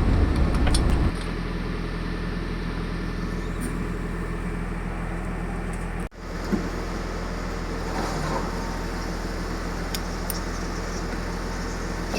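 Steady low hum of an idling vehicle engine, a little louder for the first second, then even, with a momentary break about six seconds in and a few faint clicks.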